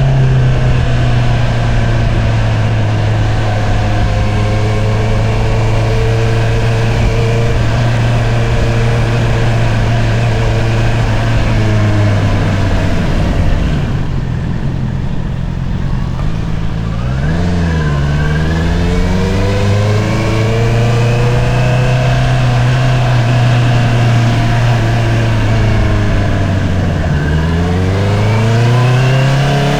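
2022 Honda CBR650R's inline-four engine running through an Akrapovič single-outlet exhaust: it holds steady revs, eases off about halfway, then pulls up again with a rising pitch, dipping and rising once more near the end as it shifts and accelerates.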